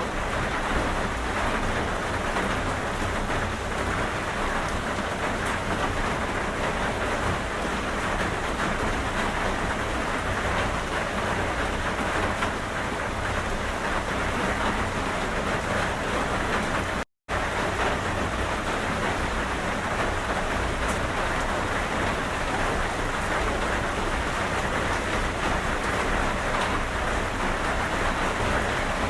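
Steady, even rain. About two-thirds of the way through, the sound cuts out to silence for a fraction of a second, then resumes.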